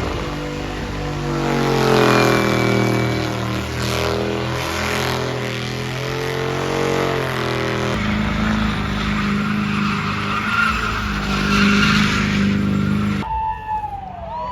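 Truck engine revved hard and held at high revs while the tyres squeal in a burnout, the engine pitch rising and falling. The sound cuts abruptly twice, and near the end a few short falling squeals follow.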